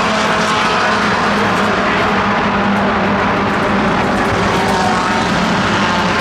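A steady, loud engine drone with an even pitch and no breaks.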